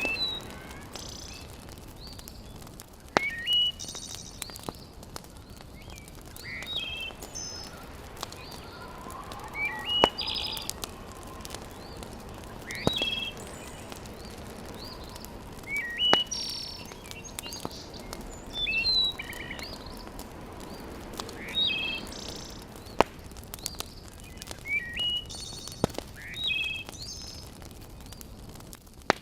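Birds chirping in short repeated phrases, with a few sharp single pops from a crackling wood fire every few seconds.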